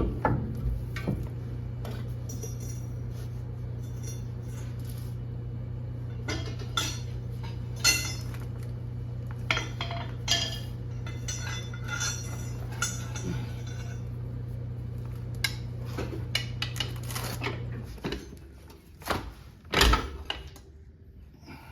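Metal tools and parts clinking and knocking during hand work on a car's drive axle, over a steady low hum that stops about eighteen seconds in.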